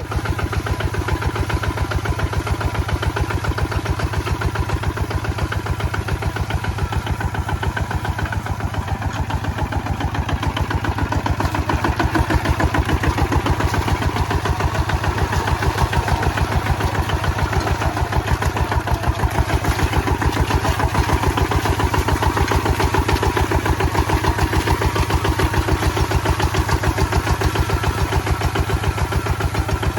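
Kubota ZT155 single-cylinder diesel engine running steadily with an even, rapid pulse, getting a little louder about twelve seconds in.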